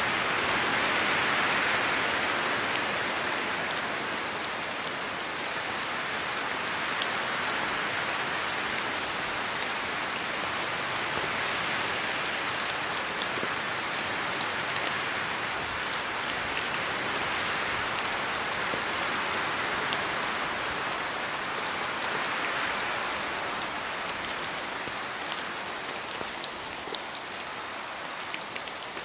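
Steady rain falling, a dense hiss with many individual drops ticking through it. The hiss swells and eases slowly every several seconds.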